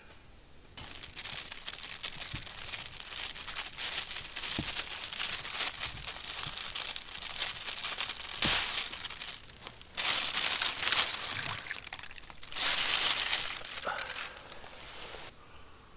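Continuous crinkling, crackly rustling, as of dry material being crumpled or handled. It starts about a second in, surges louder a few times in the second half and stops shortly before the end.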